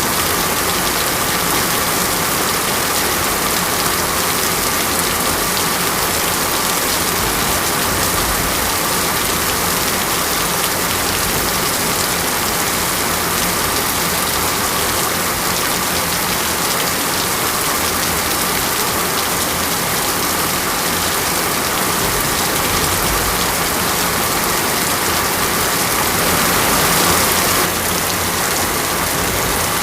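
Heavy rain falling steadily, a dense even hiss of drops on surfaces. It swells slightly a few seconds before the end, then drops back suddenly.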